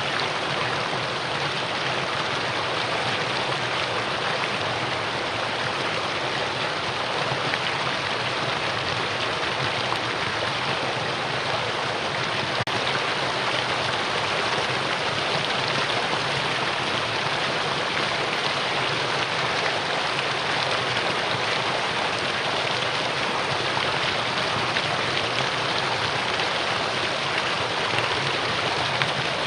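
Mountain stream water rushing over rocks, a steady even rush with no change.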